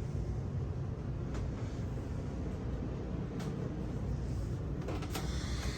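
Boat's air conditioning running with a steady low hum, with a few faint clicks.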